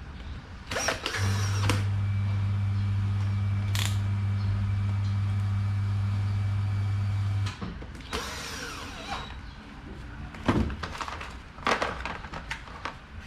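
Electric fan motor switched on and humming steadily for about six seconds, then cut off abruptly, with clicks and clatter of handling the fan before and after.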